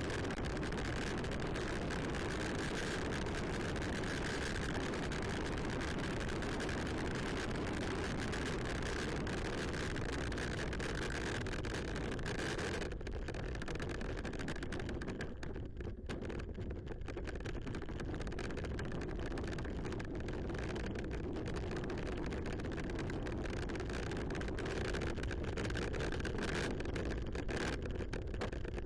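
Steady wind and road noise from a riding bicycle: air rushing over the camera microphone with tyre rumble on the trail surface. About 13 seconds in the hiss turns duller, and it stays that way.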